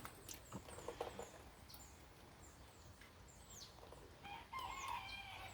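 Faint background birdsong: short high chirps repeating throughout, then a chicken's drawn-out call about four seconds in that lasts roughly a second.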